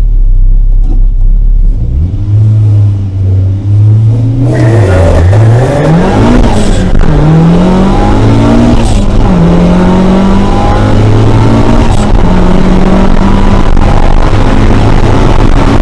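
Drag-racing car revving at the start line, then launching hard about four seconds in: the engine note climbs and drops back at each gear change, three times, before settling into a steady high pitch.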